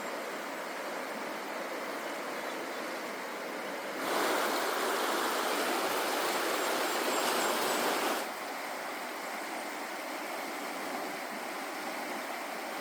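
Steady rush of a mountain river's running water. It jumps louder suddenly about four seconds in and drops back just after eight seconds.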